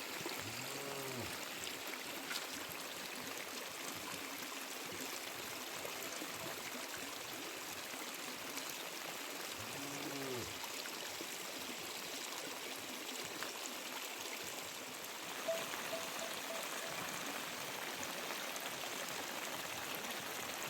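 Steady rush of heavy monsoon rain and running water. Two short rising-and-falling calls are heard, about a second in and about ten seconds in.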